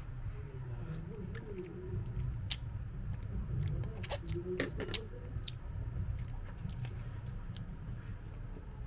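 A few sharp clinks of a cooking utensil against a pot, bunched about four to five seconds in, over a steady low rumble.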